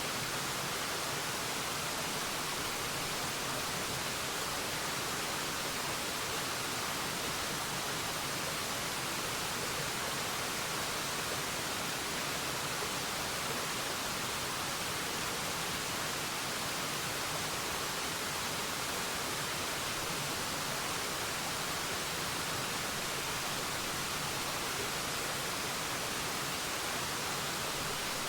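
Waterfall rushing steadily: an even, unbroken hiss of falling water with no changes or separate splashes.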